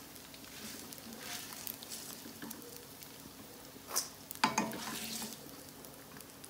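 Gond (edible gum) frying in ghee in a wok with a steady sizzle, while a slotted spatula scrapes the pan and knocks against a steel bowl as the fried gum is scooped out. The knocks and scrapes are loudest about four to five seconds in.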